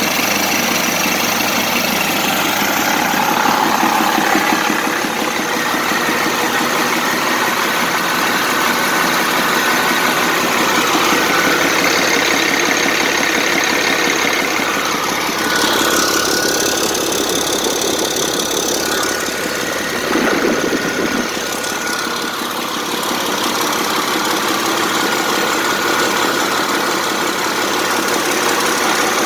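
1995 International DT466 7.6 L inline-six diesel engine with a mechanical inline injection pump, running steadily at idle on a test run, with a brief change in its sound about halfway through.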